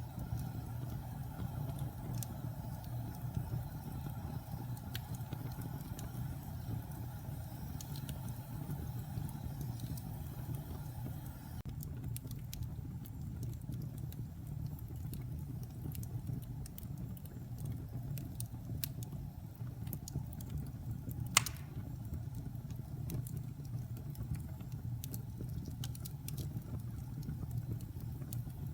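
Wood fire burning in a fireplace: a steady low rumble of flames with scattered crackles of the burning logs, and one louder pop about two-thirds of the way through.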